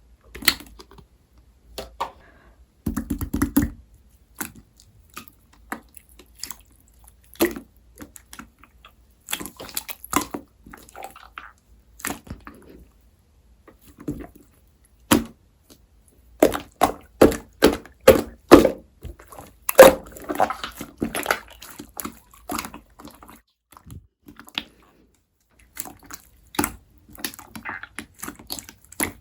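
Firm clear slime being pressed and squeezed by hand, giving irregular wet clicks, pops and squishes, with a quick run of louder pops a little past halfway.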